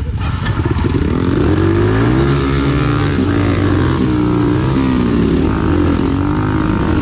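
Enduro dirt bike engine running under load on a trail, its pitch rising and falling repeatedly as the throttle is worked.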